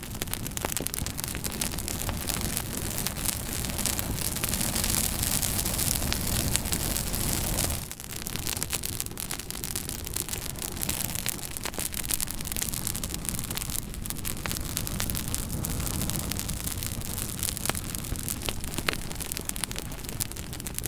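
Wood fire burning in a fireplace: a steady hiss with frequent sharp, irregular crackles and pops, dropping out for a moment about eight seconds in.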